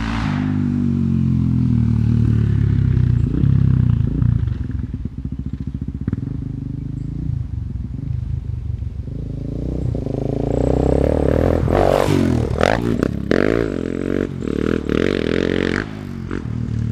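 Suzuki DR-Z400SM's single-cylinder four-stroke engine through a Yoshimura full system with RS3 muffler, painfully loud. The engine note falls in pitch and fades as the bike rides away. About ten seconds in it comes back louder, revving up and down, with dirt scraping and clattering under the tyres.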